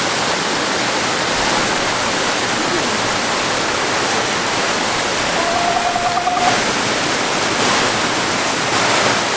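Waterfall rushing steadily. A short, faint wavering tone rises above it for about a second, a little past the middle.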